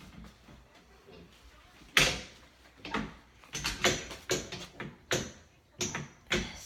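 A door being handled with a key: a loud knock about two seconds in, then a string of sharp clicks and knocks.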